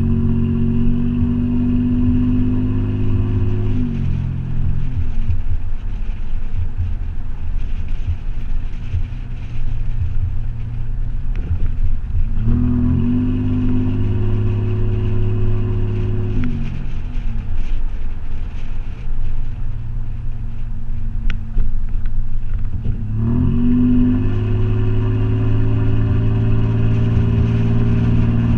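Toyota 4Runner engine running through a Flowmaster 40 Series exhaust. It is at higher revs at the start, drops back about four seconds in, then climbs and holds high again about twelve seconds in and again about twenty-three seconds in.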